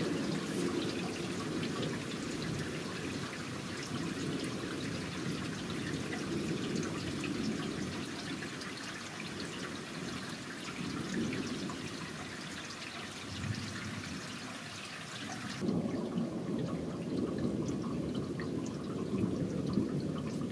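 Rain falling, with pattering drops and a steady low rumble underneath. About three-quarters of the way through, the high hiss of the rain cuts off abruptly while the low rumble carries on.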